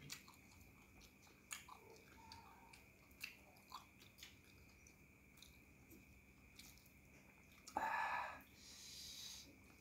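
Faint close-up chewing and small mouth clicks of a man eating rice, goat curry and soft fried noodles by hand. A louder, brief noisy sound comes about eight seconds in.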